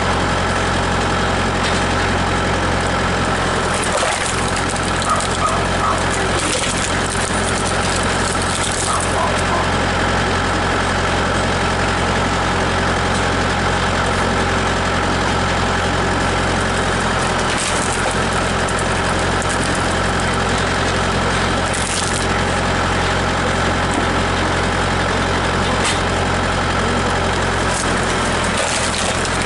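Tractor engine running steadily, driving a PTO screw (cone) log splitter, with a few short sharp cracks as logs split.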